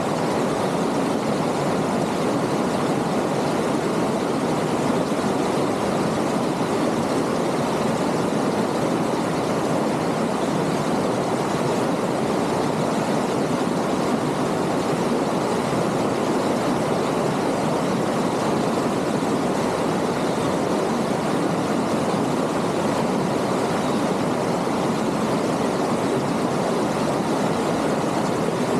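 Water of a rocky stream rushing and splashing over stones, a steady, even rush.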